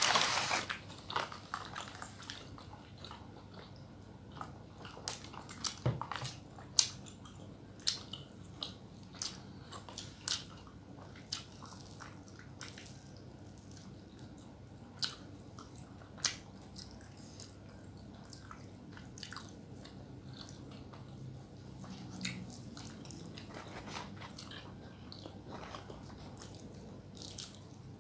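Close-up chewing and biting of food, with many short wet clicks and crunches, coming thickly in the first half and more sparsely later.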